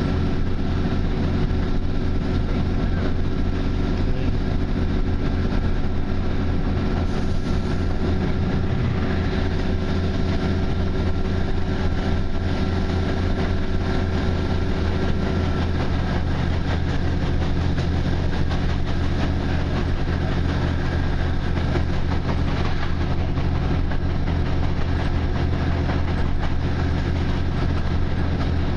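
Diesel passenger train heard from inside the carriage while running along the line: a steady engine and running drone. About halfway through, a higher tone in the note drops away.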